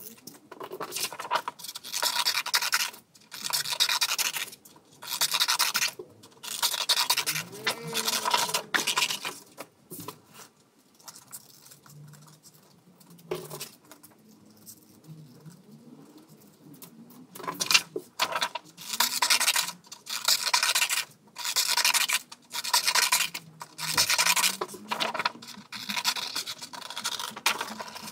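Scissors cutting through sheets of paper: a run of rasping snips in bursts up to about a second long with short pauses, quieter for several seconds in the middle.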